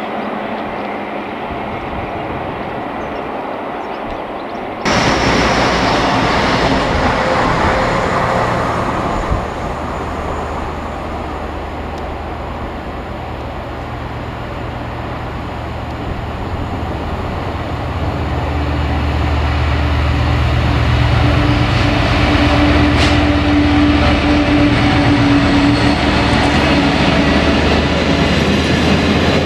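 A train running on the rails, with a locomotive's steady engine drone growing louder over the second half. The sound changes abruptly about five seconds in.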